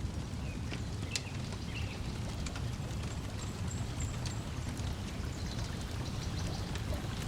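Wood fire crackling with scattered sharp pops over a steady low wash of lapping lake water and breeze. A few faint bird chirps are high above it.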